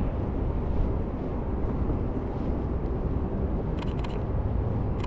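Lumix S5 camera shutter firing, a quick pair of clicks about four seconds in and another pair near the end, over a steady low rumble of outdoor city traffic.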